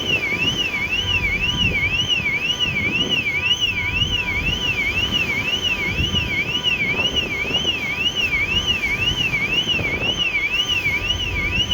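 An electronic alarm sounds continuously, a high warbling tone sweeping up and down about twice a second. Under it there is a low rumble of wind and engine.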